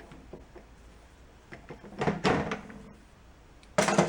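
Metal engine parts of a 1962 Honda Cub 50 being handled and knocked together: a short cluster of clattering knocks about two seconds in, and a sharper, louder clunk near the end.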